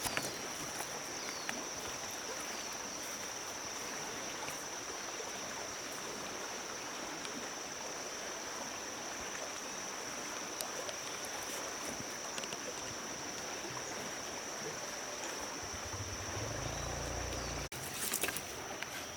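Steady rushing noise like a flowing stream, with a constant high-pitched drone over it. Near the end a low rumble comes in for a couple of seconds and cuts off abruptly.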